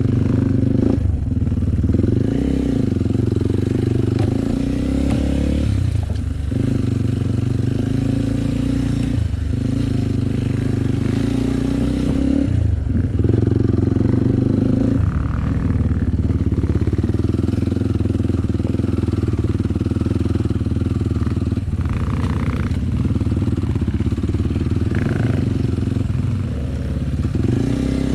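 Trail motorcycle engine running while riding. Its pitch rises and drops every few seconds as the throttle opens and closes and the gears change.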